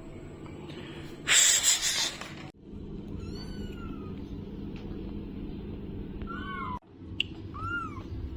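Kitten meowing: several short, high meows that rise and fall in pitch, following a loud burst of hiss-like noise about a second in.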